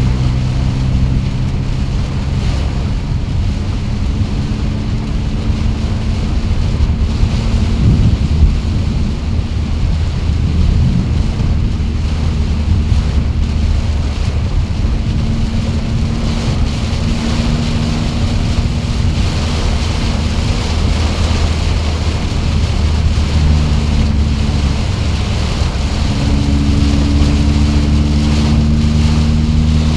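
Heavy storm rain and wind as a steady rushing noise, with a low motor hum underneath whose pitch shifts a few times, about halfway through and again near the end.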